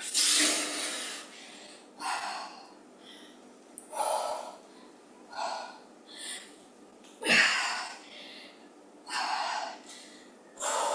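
A woman breathing hard from exertion during deep squats with weights: about eight sharp, audible breaths, one every one to two seconds.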